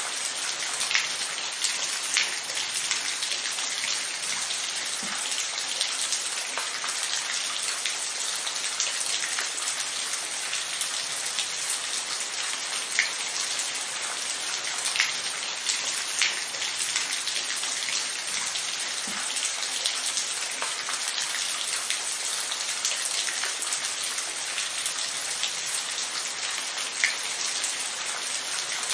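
Steady rain falling: an even hiss of rainfall with scattered individual drops ticking sharply now and then.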